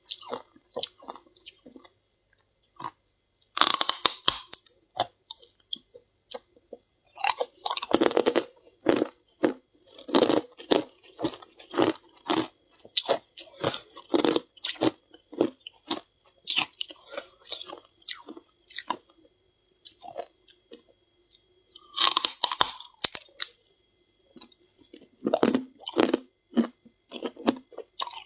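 Close-up crunching and chewing of frost scraped from a humidifier, eaten by hand: clusters of sharp crunches with a few short pauses, and louder bites at about four, eight and twenty-two seconds in.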